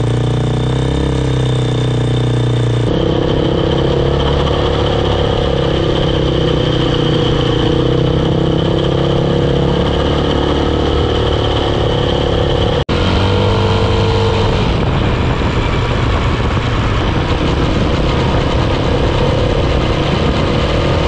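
Triton Baja 400R quad engine and freshly overhauled gearbox running steadily, with a slight change in engine pitch about 3 and 13 seconds in. The gearbox runs very quiet on its new ball bearings.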